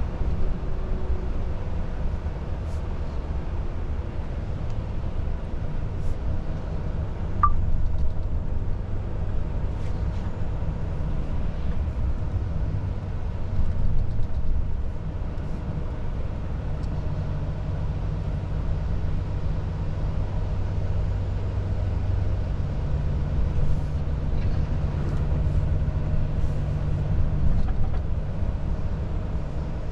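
Volvo FH truck's diesel engine and road noise droning steadily from inside the cab while driving, the engine note shifting and stepping up in pitch about two-thirds of the way through.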